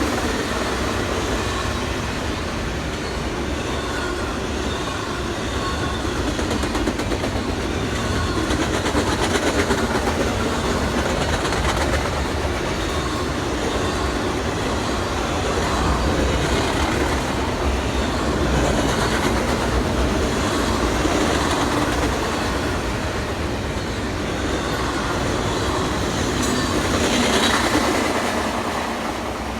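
A train rolling past at close range, its wheels rumbling steadily on the rails with faint squeal. It begins to fade in the last couple of seconds.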